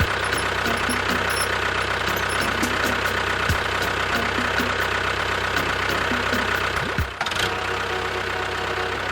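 A motor running steadily, with a brief dip in level about seven seconds in.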